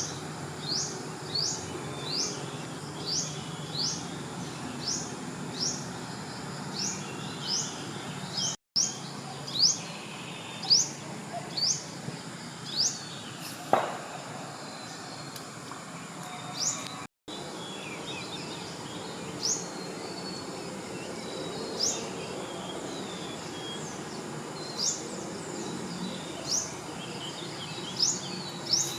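Outdoor wildlife sound: a short, rising, high chirp repeated about once or twice a second at first and more sparsely later, over a steady background of insect-like noise. A single knock sounds about midway, and the sound cuts out briefly twice.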